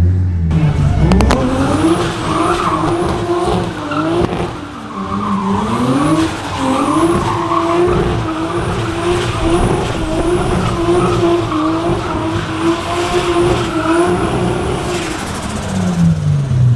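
Nissan RB25DET turbocharged straight-six revved hard from idle about a second in and held at high revs for most of the run, dropping twice and climbing back, with repeated short high squeals over the engine note. Near the end it falls back to idle.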